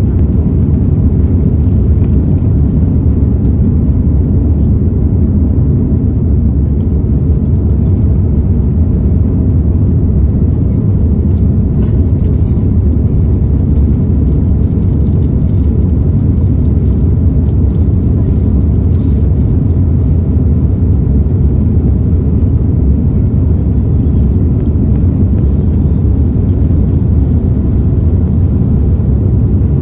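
Steady, loud low rumble of an Airbus A330-343 heard from inside the passenger cabin: its Rolls-Royce Trent 700 engines and airflow running without a break.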